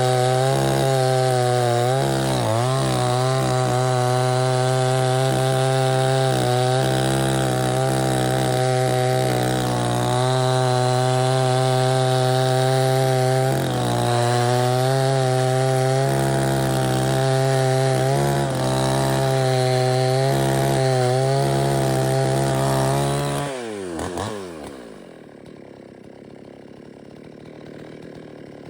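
Chainsaw running at high revs, dipping briefly now and then as it takes load in a cut, then letting off near the end as the revs fall away to a much quieter level.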